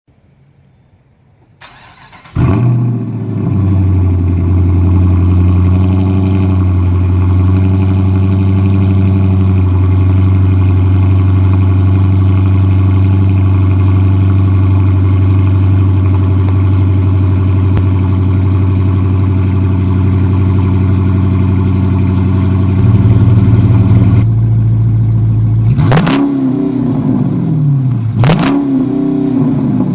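Dodge Charger R/T with Powerstick mufflers cold starting: the starter cranks briefly, the engine catches about two seconds in and settles into a loud, steady idle. Near the end it is revved twice in quick blips that rise and fall back, loud enough to distort the phone's audio.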